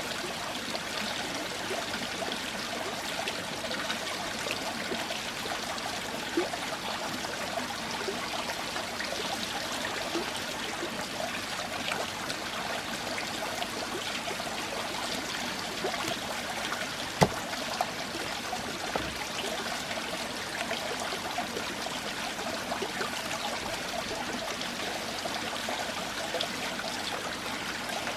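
Running water trickling steadily, like a small stream, with an occasional sharp knock, the loudest about 17 seconds in.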